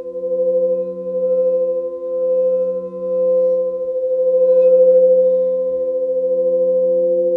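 Singing bowls ringing with several overlapping steady tones. The lowest tone swells and fades about once a second.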